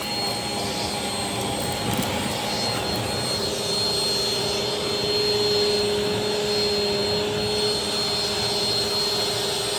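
Vacuum cleaner running steadily, a motor whine over a broad rushing of air, a little louder around the middle.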